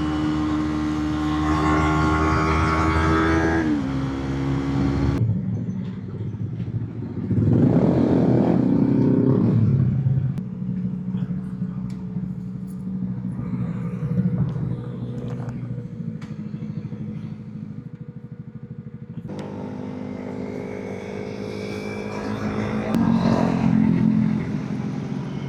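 Motorcycle engine running under way, heard from the rider's position. The revs drop a little before 4 s, and there is a short burst of revving around 8 s. After a quieter, varying stretch it builds again in the last few seconds.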